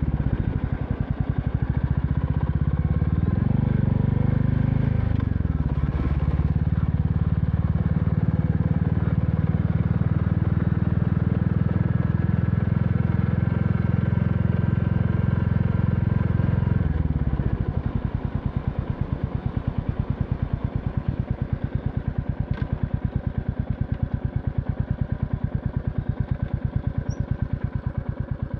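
Royal Enfield Classic 350's single-cylinder engine running steadily under way, its pitch dipping and recovering in the first few seconds. About 17 seconds in the revs drop and it settles into a slower, quieter, even thump, as at idle.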